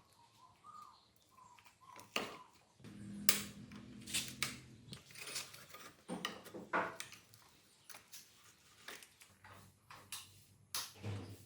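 Irregular clinks and knocks of metal tools and parts being handled, a dozen or so sharp strikes, some ringing briefly.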